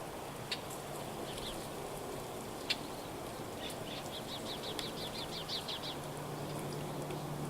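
Small birds calling: two sharp, high single chips, then a rapid run of about ten high notes around the middle. A low, steady hum comes in near the end.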